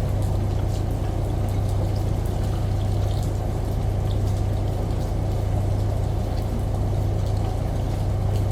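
Steady low hum of a washing machine blended with running water, with faint scattered drips on top.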